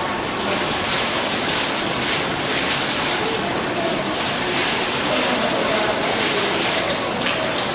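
Graphic waterfall: a curtain of water falling and splashing down, a steady dense rushing hiss that starts abruptly at the beginning.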